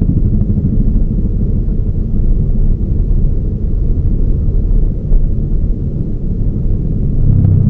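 Toyota Raize GR small SUV driving: a steady low rumble of engine and road noise. The engine note grows stronger briefly near the end.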